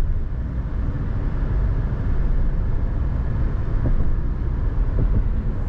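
Steady low rumble of a Nissan Tekton's 1.3-litre turbo petrol SUV at highway speed, heard from inside the cabin: mostly road and tyre noise with the engine in the mix.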